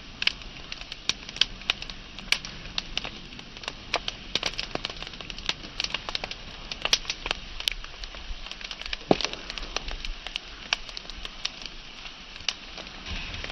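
Wood fire burning, with a steady hiss and irregular sharp crackles and pops, several a second; one louder pop about nine seconds in.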